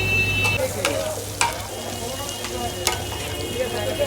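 Chicken chaap frying in hot oil in a street-food pan, sizzling steadily, with a few sharp clacks of metal on the pan. A low hum stops about half a second in.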